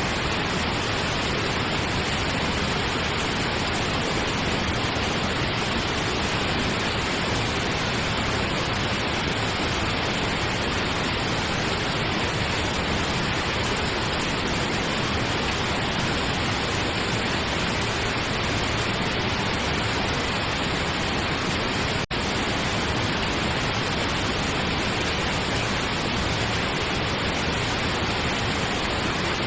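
Steady pink noise: an even, unchanging hiss, broken by a momentary dropout about three-quarters of the way through.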